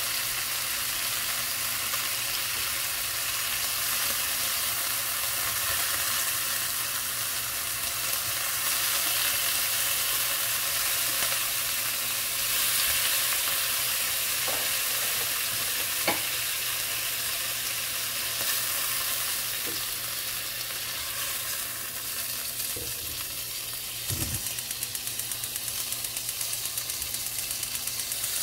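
Food sizzling in a hot frying pan while being stirred, with a few sharp clicks of a utensil against the pan.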